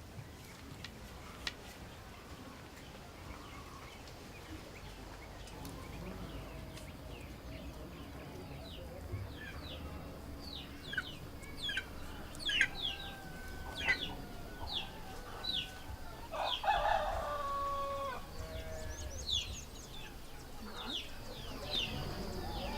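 A rooster crowing once, past the middle, among many short, high, falling chirps of small birds or chicks.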